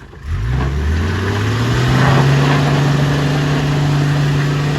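An off-road four-wheel-drive's engine revs up sharply and then holds at high revs under load, its pitch creeping slowly higher.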